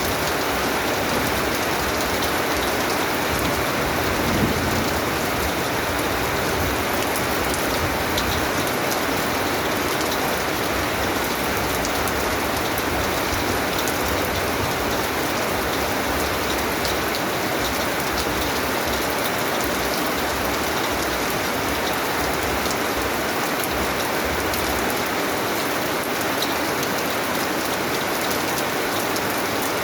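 Steady rain falling, a dense even hiss flecked with individual drop patters, with a faint low thump about four seconds in.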